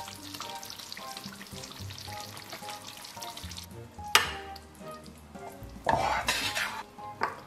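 Braised pork belly sizzling in its thick, reducing sauce in a wok as it is stirred, then served up. A sharp spatula scrape comes about four seconds in, and a louder rush of sizzling and scraping comes near six seconds as the pork and sauce go onto a plate.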